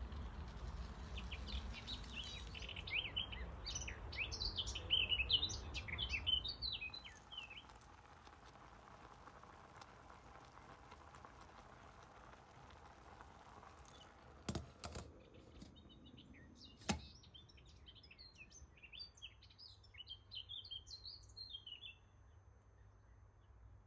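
A small bird chirping and twittering in quick, high notes, in two spells with a pause between. In the pause come a few sharp knocks.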